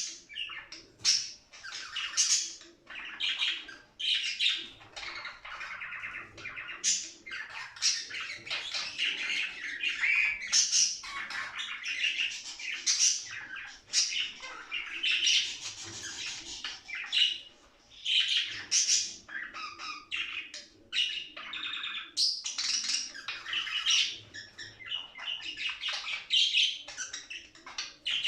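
Budgerigars chattering and warbling: a fast, nearly continuous run of high chirps and squawky calls, with short lulls now and then.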